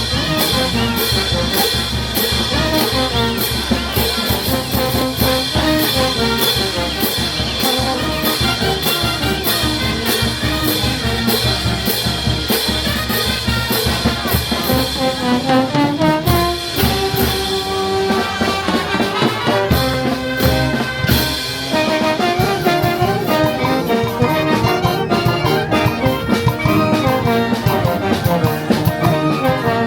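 Brass band playing, trumpets and trombones over drums and cymbals with a steady beat. The percussion drops out briefly about halfway through before the band carries on.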